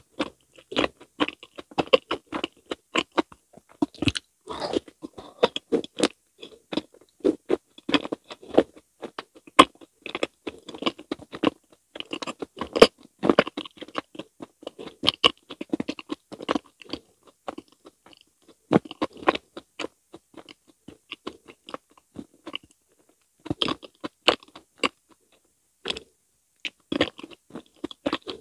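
Close-miked chewing of a mouthful of fruit mochi: a quick run of mouth clicks and smacks, with a few short pauses in the second half.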